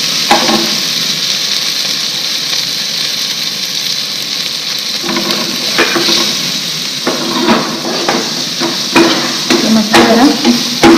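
Hot oil sizzling in a frying pan as a tempering of green chillies, curry leaves and coriander fries. From about halfway in, a steel spoon stirs and scrapes against the pan.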